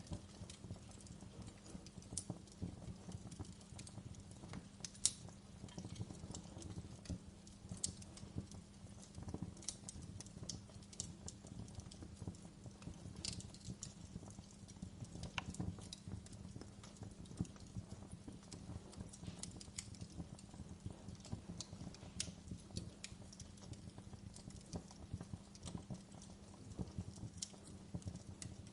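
Fire crackling: irregular sharp pops and snaps over a low steady rumble, with one louder pop about five seconds in.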